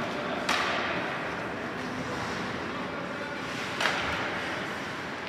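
Two sharp knocks from play on an ice hockey rink, about three and a half seconds apart, each with a short ringing tail, over steady rink noise.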